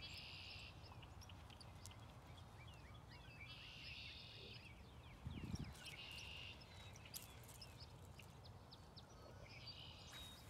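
Faint bird calls: short trilled phrases repeat every few seconds, with small chirps between them, over a quiet background. There is a soft low thump about five seconds in.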